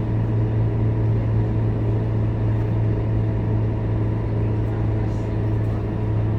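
Scania K230UB city bus's diesel engine running at a steady speed, a constant low drone that holds its pitch without revving up or down.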